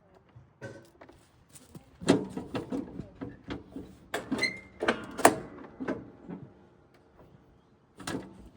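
Irregular knocks and metallic clanks of hand work on a John Deere D100 riding mower, bunched together in the middle with one brief ringing clank, then a last knock near the end.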